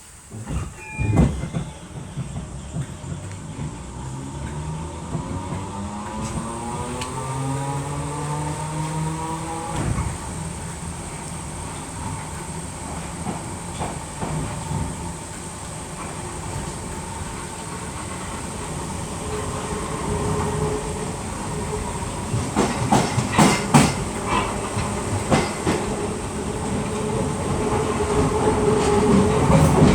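Merseyrail Class 508 electric multiple unit pulling away: a thump about a second in, then the traction motor whine rising in pitch until it drops away about ten seconds in. After that the train runs steadily, its wheels clattering over rail joints and points, louder towards the end.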